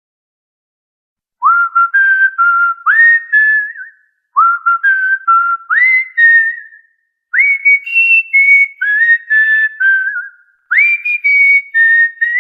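Cockatiel whistling a short tune of clear notes, each phrase opening with an upward swoop. The phrase comes four times in a row, the last two pitched higher.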